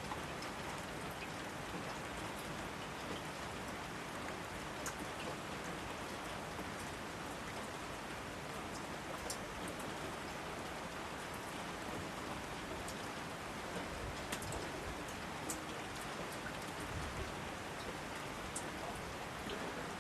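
Steady rain falling: an even hiss with scattered sharper drips of single drops striking.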